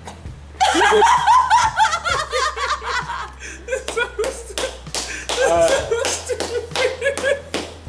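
People laughing hard in rapid, breathless bursts that break out about half a second in and carry on throughout.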